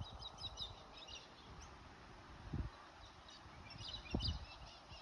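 Small birds chirping in short scattered bursts over a faint steady outdoor background, with a couple of low thumps.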